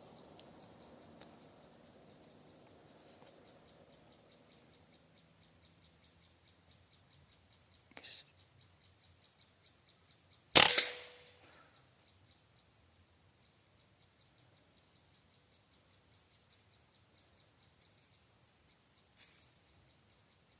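PCP air rifle firing a single shot about ten seconds in: one sharp crack with a short ring. Under it runs a steady high-pitched drone of insects, with a faint click a couple of seconds before the shot.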